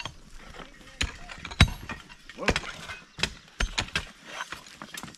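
Hand picks and shovels striking rock and rocky soil: a string of irregular sharp blows, the loudest about a second and a half in.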